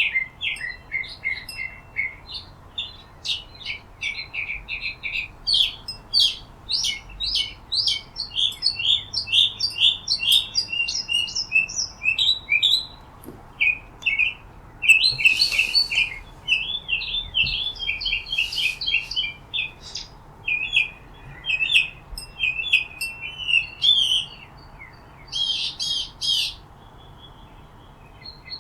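Small birds chirping: many short, quick chirps that overlap and keep up throughout, with a few louder, busier bursts.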